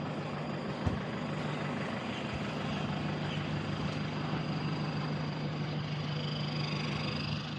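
Steady low mechanical hum of an idling engine, with a single short knock about a second in.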